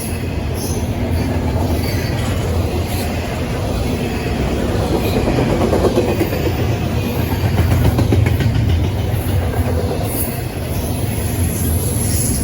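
A train's cars rolling past close by: a steady, loud rumble of wheels on rail with rapid clicking from the wheels over the track.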